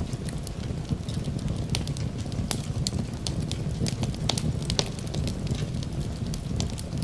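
Fireplace fire crackling, with frequent sharp irregular pops and snaps over a steady low rumble.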